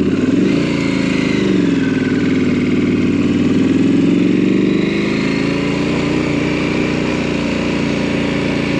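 KTM adventure motorcycle engine running just after being bump-started, its revs rising and falling gently before settling to a steady idle about five seconds in.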